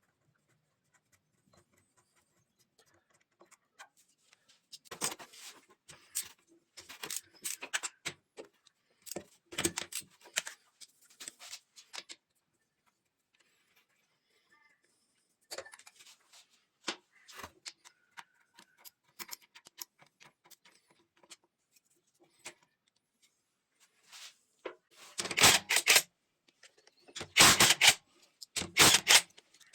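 Metal tools and engine parts clinking and clattering in scattered clicks and knocks, with a run of loud, rapid clicking near the end.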